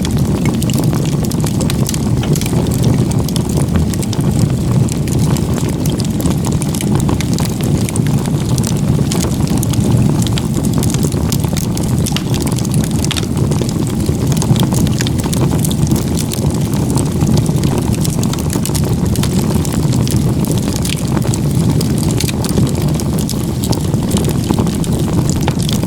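Firewood burning in a log-cabin stack: a steady low rush of flames with many small crackles and pops throughout.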